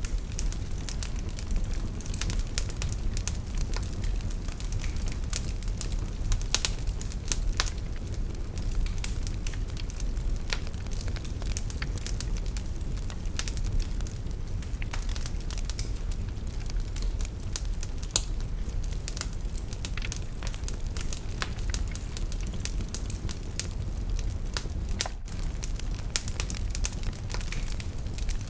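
Fire in a fireplace crackling: irregular sharp pops and snaps over a steady low rumble of burning.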